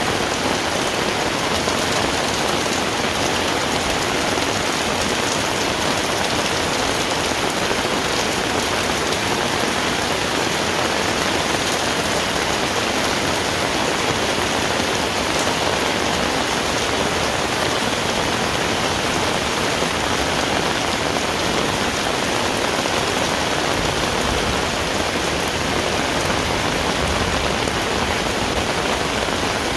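Heavy rain falling steadily on the ground and surfaces around, a dense, even hiss.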